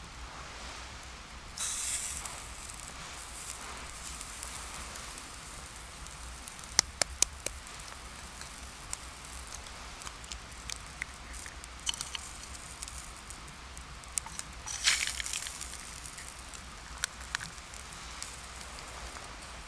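Wood campfire crackling over a steady soft hiss, with sharp pops, three in quick succession about seven seconds in, and brief rustling bursts near the start and about fifteen seconds in.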